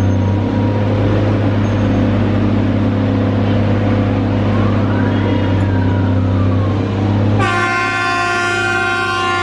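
Express train running past at speed: a loud, steady rumble. About seven seconds in, a loud, sustained chord of many steady tones starts abruptly.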